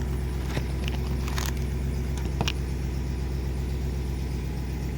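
A 5.7 Hemi V8 in a 2014 Ram 2500 idling steadily through a Thrush Hush muffler and the stock resonator, with a quiet, even exhaust note. A few light clicks sound in the first couple of seconds.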